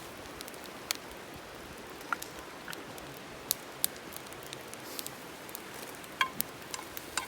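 Wood campfire crackling: irregular sharp pops, roughly one a second, over a soft steady hiss.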